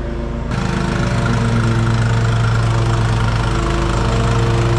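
Diesel vehicle engine idling steadily with a knocking clatter, growing louder and fuller about half a second in.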